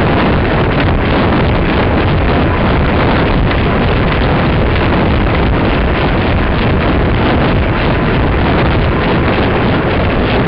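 Wind buffeting the microphone: a loud, steady rushing noise with no clear events in it.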